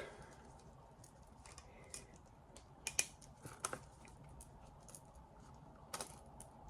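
A few faint, sharp clicks and light knocks of objects being handled, over quiet room tone.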